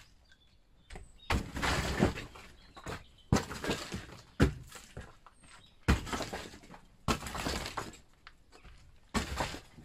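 Brickwork being demolished: about seven heavy blows at irregular intervals, each followed by bricks and rubble clattering down.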